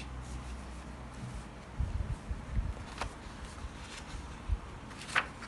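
Quiet room with soft handling noises as a picture book's page is being turned: a cluster of low thumps about two seconds in, then a few light clicks near the end.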